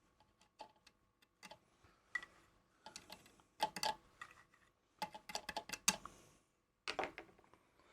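Light, irregular clicks and taps in small clusters, from small tools and parts being handled on a workbench while soldering an SO239 connector's ground tab.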